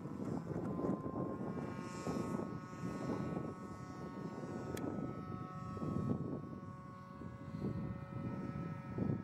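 Model tow plane's OS .61 glow engine running steadily at high throttle, a buzzing propeller drone that rises a little at first and then holds pitch. Gusty wind rumbles on the microphone underneath.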